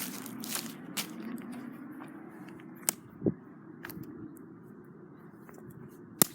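Scattered sharp snaps and clicks of sticks and twigs, four of them, spread over several seconds with the loudest near the end, and one dull thump in the middle, over a low steady rumble.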